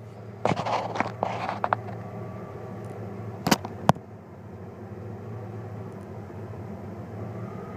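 Chevy 350 TBI V8 idling steadily through a muffler-only exhaust, with a few sharp clicks or pops in the first four seconds. The engine has a misfire that can only be heard in the exhaust, its cause not yet found.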